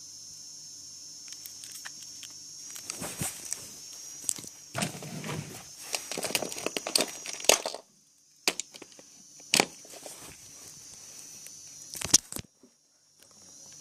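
Hands handling a Nokia 2610 mobile phone and its packaging: irregular rustling with sharp clicks and knocks, busiest in the first half, then a few single sharp clicks.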